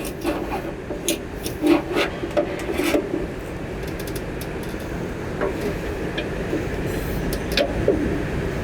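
Clicks, knocks and scraping from the legs of a travel trailer's fold-down entry steps being pulled out and adjusted, busiest in the first few seconds, over a steady background rush.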